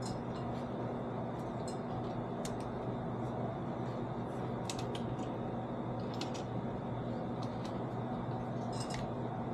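Scattered light clicks and taps as the handle and clamp of a metal saw chain vise are adjusted by hand, over a steady low hum.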